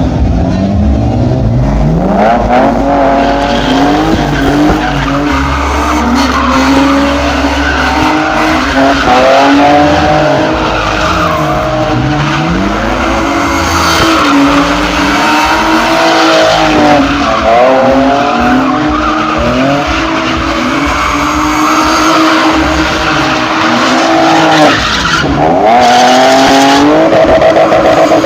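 Drift car's engine revving up and down over and over with tyres squealing and skidding as the car slides. There is a sharp drop in revs about three seconds before the end, then it climbs again.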